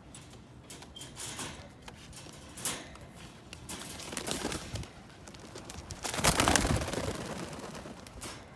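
Young Pakistani high-flyer pigeons at an open loft door, with scattered short rustles and a louder burst of rustling about six seconds in.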